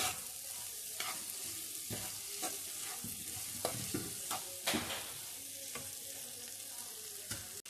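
Onion, tomato and lentil dough sizzling in oil in a kadai, being sautéd until the raw smell is gone. A spatula stirs and scrapes the pan, making short strokes about once or twice a second over a steady sizzle.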